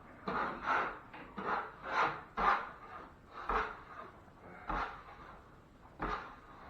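Drywall knife scraping excess joint compound off a ceiling patch in short, irregular strokes, about one or two a second, getting fainter later on.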